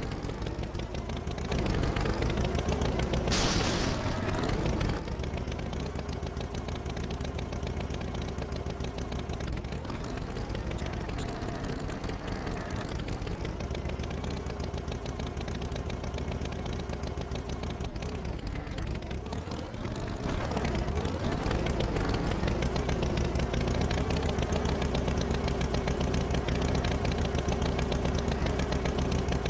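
Tractor engine running steadily as a cartoon sound effect, its pitch rising and falling now and then, with a short hiss a few seconds in. It runs louder from about two-thirds of the way through.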